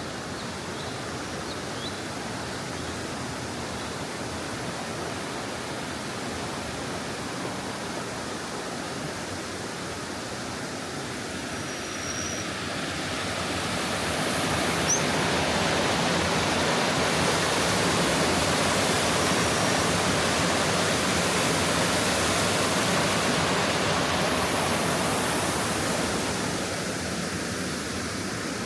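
Stream water rushing steadily, growing louder about halfway through and easing off again near the end.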